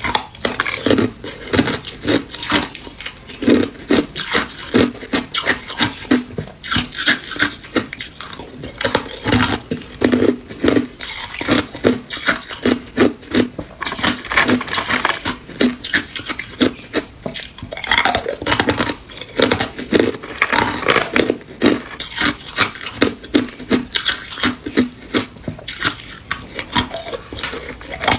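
Hard ice cubes being bitten and chewed close to the microphone: a fast, uneven run of loud sharp crunches and cracks, several a second.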